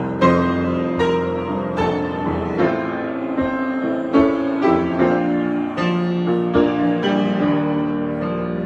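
Solo piano improvisation: slow chords and single notes struck roughly once a second, each left ringing into the next.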